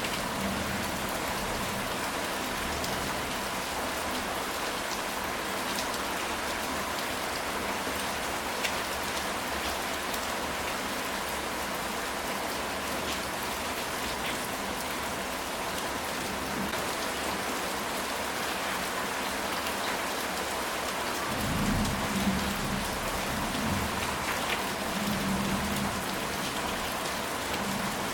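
Steady rain falling on a ceramic tile roof, with scattered drop ticks. About three-quarters of the way in, a low rumble of distant thunder rises and rolls for several seconds.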